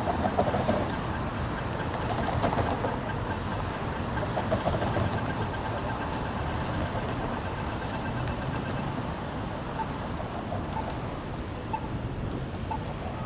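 City street traffic running steadily. Over it comes a rapid, even ticking that stops about nine seconds in, and a few short high chirps follow near the end.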